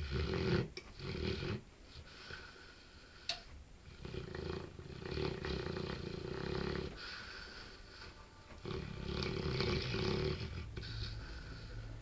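Bullmastiff snoring heavily in its sleep: two short rasping snores at the start, then two long drawn-out ones, the second rising to the loudest point.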